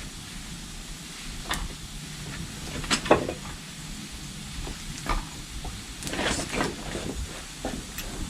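Scattered knocks and clanks from handling camp cooking gear over a campfire, a few sharp hits a second or more apart with a busier patch near the end, over a faint steady background.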